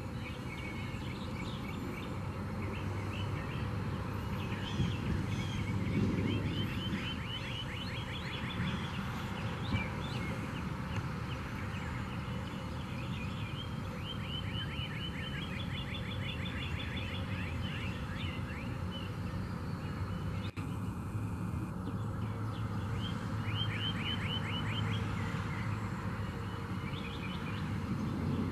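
A bird repeating fast trills of rapid chirps, each lasting a couple of seconds with short gaps between, over a steady low outdoor hum.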